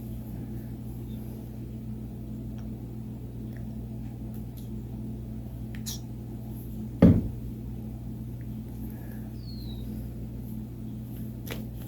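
Steady low electrical hum, with faint light clicks of hands handling craft materials and one loud thump about seven seconds in.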